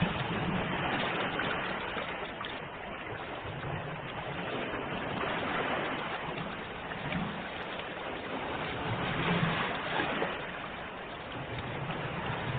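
Ocean waves washing in a steady, continuous rush that swells and eases gently.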